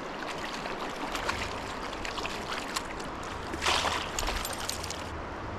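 River water running steadily, with a brief louder rush of noise about three and a half seconds in.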